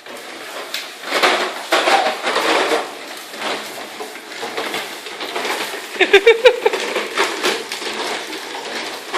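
Toddlers' ride-on toy motorbikes rattling and clattering over a hard floor, with small children's voices. About six seconds in comes a short loud burst of rapid high-pitched pulses.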